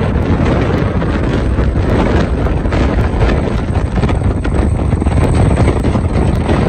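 A home-built car-plane moving under its own power, its engine and heavy wind buffeting the microphone making a steady, loud rumble and hiss.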